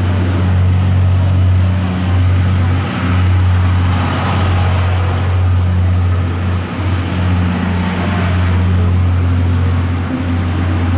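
Diesel-hauled Saloncar Naniwa passenger coaches rolling slowly out past the platform: a loud, steady low engine hum over the rumble of the train.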